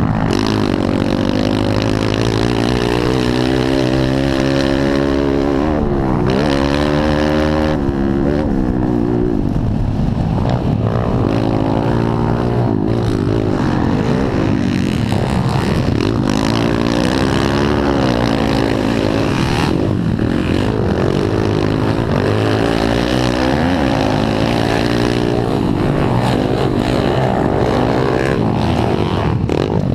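Several pit bike engines racing, their revs rising and falling over and over as the riders accelerate, shift and back off, with more than one bike audible at once.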